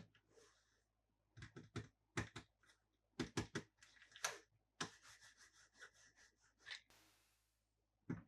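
Small toys and plastic parts being handled: groups of sharp clicks and taps, then a couple of seconds of rubbing and scraping with small clicks.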